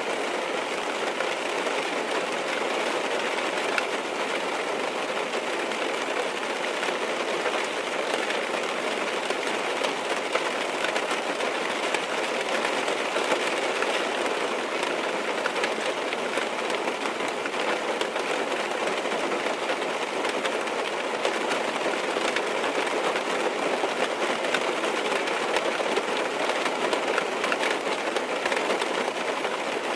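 Steady rain falling on a car's roof and windows, heard from inside the car as a dense, even patter of drops.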